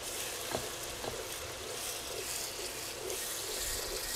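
Onion and chili-paste masala sizzling in hot oil in a pot while a wooden spatula stirs it, with a couple of light knocks of the spatula against the pot about half a second and a second in.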